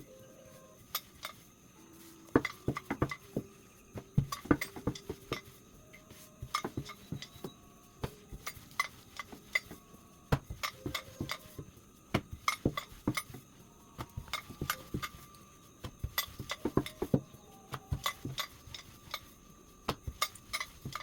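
Irregular wooden and hard knocks and clinks in quick clusters, typical of a rolling pin clattering on a board while stuffed roti dough is rolled out.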